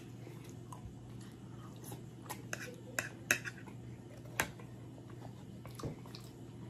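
Close-miked chewing of a mouthful of food, with a handful of sharp wet mouth clicks and smacks between about two and six seconds in.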